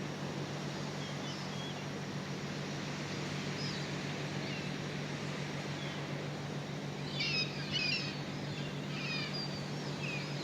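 Steady rush of wind and sea surf, with a small bird calling in short high chirps, scattered at first and then in a quick cluster about seven seconds in and again near the end.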